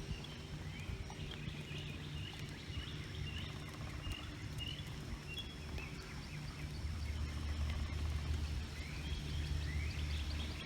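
Birds chirping and calling over a steady low rumbling hum that grows louder about seven seconds in.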